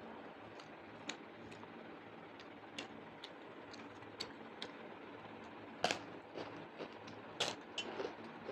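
Eating sounds from a person chewing and handling a meal of rice, dal, mutton gravy and papad: irregular small clicks and smacks, with two louder clicks past the middle, over a steady low background hum.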